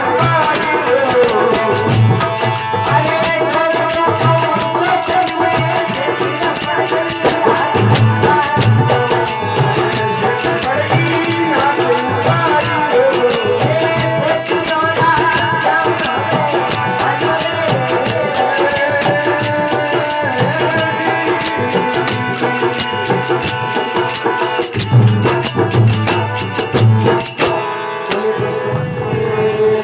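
Rajasthani devotional bhajan music without words. A melody winds over a hand drum and a fast, steady jingling of small percussion, and the jingling drops out near the end.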